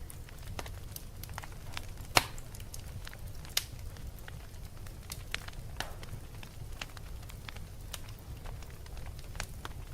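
Wood fire crackling: irregular sharp pops and snaps over a steady low rumble of flames, with the loudest pop about two seconds in.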